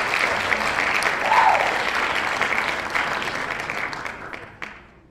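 Applause: a crowd clapping, fading out over the last second or so.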